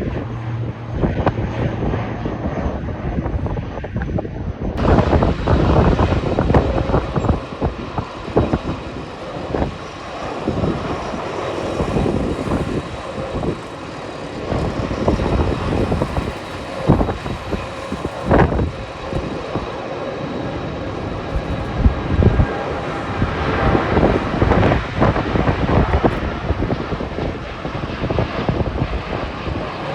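Jet airliner engines running loud and steady, with gusty wind buffeting the microphone. The sound changes abruptly about five seconds in.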